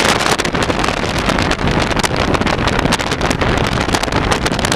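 Wind blasting across the microphone of a fast-moving car, a loud rough crackling rush mixed with engine and road noise.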